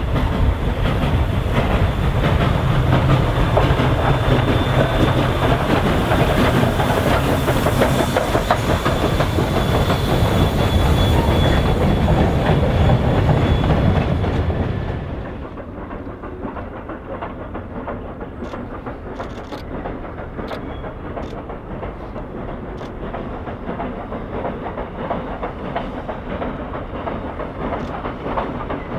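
A train rolling past on the rails, its wheels clicking over the rail joints, with a faint high squeal. The sound drops off sharply about halfway through, leaving quieter rolling noise and a few sharp clicks.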